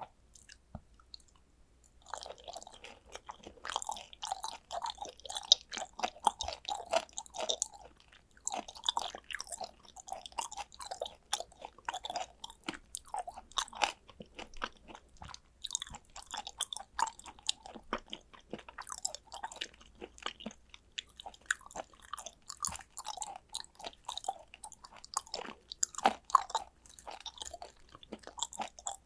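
Close-miked chewing of raw tuna sashimi: wet, smacking mouth sounds with quick little clicks, starting about two seconds in and going on without a break.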